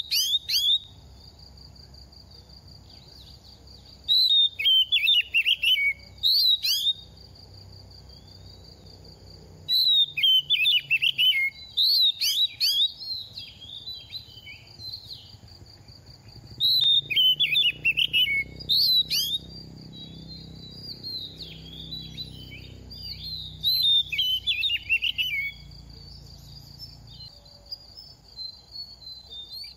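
Oriental magpie-robin singing: about five bursts of fast, varied whistled phrases a few seconds apart, over a steady high-pitched whine.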